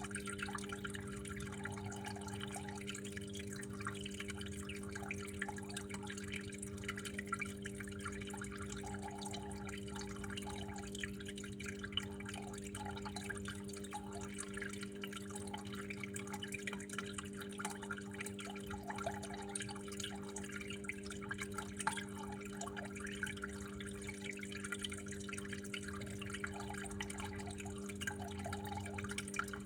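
Water running and dripping steadily in a small room, an irregular patter of drops and trickles. A steady low hum runs underneath.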